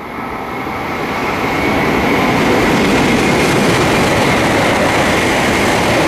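Tohoku Shinkansen coupled train approaching and passing at speed: a rushing rail and air noise that builds over about two seconds, then holds loud and steady with a high whine.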